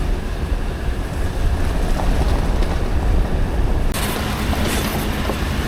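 Vehicle driving over a rough gravel road, a steady low rumble of engine and tyres with wind buffeting the microphone. About four seconds in, a harsher hiss joins.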